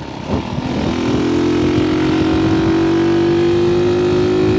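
1964 Honda C200's small single-cylinder four-stroke engine pulling steadily under throttle while riding. From about a second in, its note grows louder and creeps slowly up in pitch, with rough wind noise underneath.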